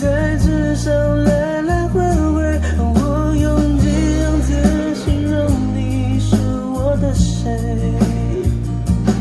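A pop song with a singing voice, guitar and heavy, sustained bass, played back through a freshly repaired Harman Kardon speaker as a sound test.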